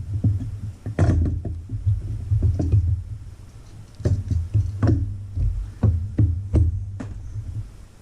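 Metal engine parts and hand tools knocking and clicking in irregular strikes, a dozen or so, over a steady low hum that stops near the end.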